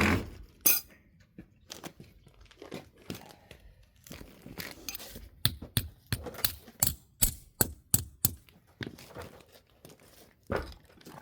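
A plastic bag crinkling while hinge hardware is handled: irregular rustles, with many short sharp clicks and small knocks.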